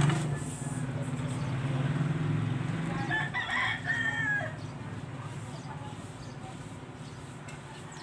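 A single drawn-out bird call about three seconds in, lasting just over a second, over a steady low hum that dies away soon after.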